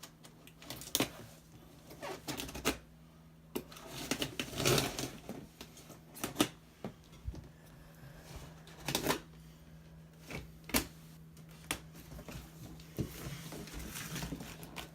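Packing paper and cardboard being handled while a box of BMX parts is unpacked: irregular sharp clicks and taps with short bursts of rustling paper.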